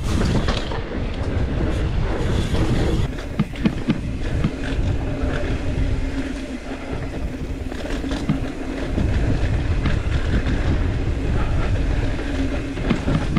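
Mountain bike riding fast over a rough dirt trail: a continuous rumble of tyres on dirt and rock, with the bike rattling and knocking over bumps and wind on the microphone.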